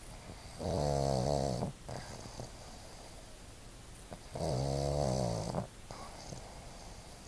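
Pug snoring: two snores with a pitch, each about a second long, about three and a half seconds apart.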